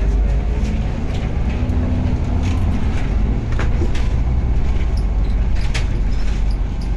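Steady heavy rumble of a vehicle riding along a bumpy route, with a few sharp knocks or rattles, the clearest about two and a half, three and a half and six seconds in.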